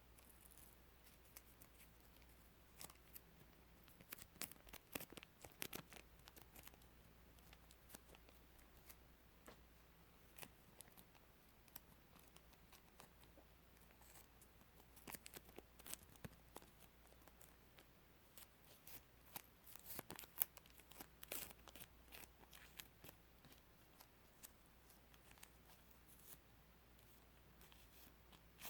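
Masking tape being peeled off a surface: faint sticky crackles and snaps in irregular clusters, with the strongest cluster about twenty seconds in.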